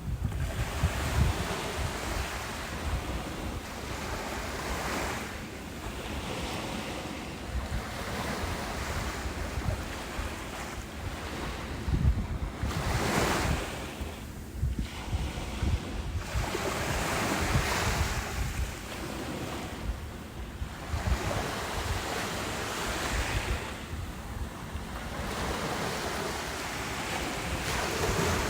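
Ocean waves breaking on a beach, each surge swelling and falling away every four to six seconds, with wind buffeting the microphone.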